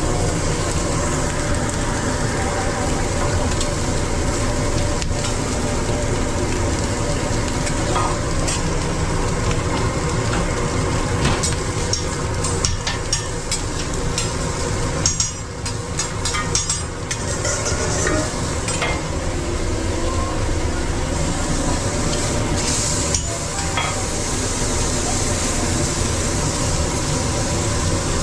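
Food sizzling and frying on a hot food-truck griddle over a steady hum, with scattered clicks and scrapes of utensils stirring and turning the food, most of them in the middle of the stretch.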